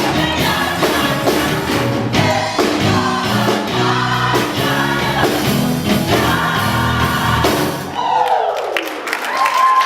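Choir singing a gospel song over a band with bass and drums. The music stops about eight seconds in, and a single voice slides down in pitch.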